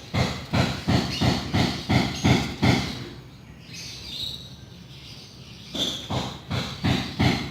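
Rhythmic hand strokes rubbing back and forth on a wooden surface, about three a second, in two runs with a pause of about three seconds between them.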